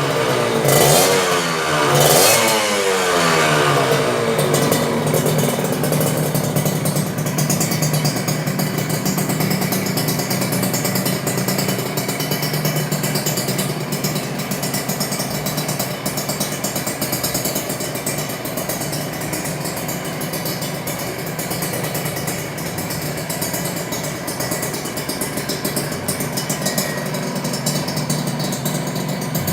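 Kawasaki Ninja RR's single-cylinder two-stroke engine, breathing through an aftermarket Cream Pie ZZ1 stainless-steel exhaust. It is revved a few quick times in the first three seconds or so, then settles to a steady idle.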